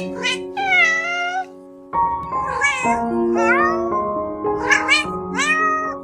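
A cat meowing several times, in long rising and falling calls, over background music. The music drops out briefly about two seconds in.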